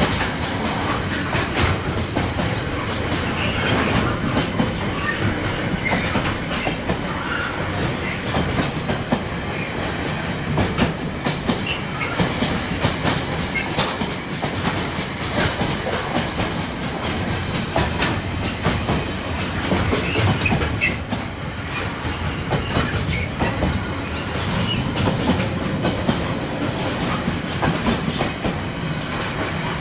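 Container wagons of a long freight train rolling past close by: a steady rumble with the wheels clattering over rail joints, and brief high wheel squeaks here and there.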